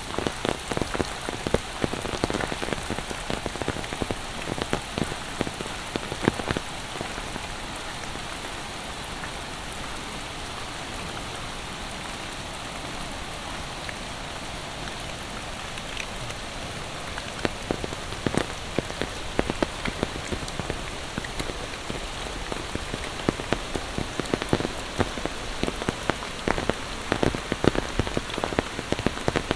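Steady monsoon rain hiss with many close, sharp raindrop hits and drips. The close hits thin out for several seconds in the middle, then grow dense again.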